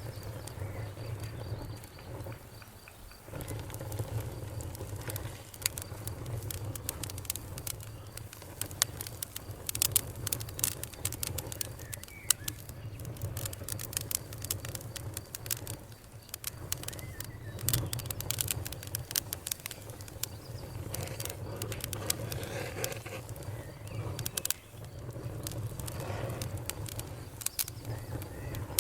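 Fire crackling, with frequent irregular sharp pops and snaps over a low steady rumble.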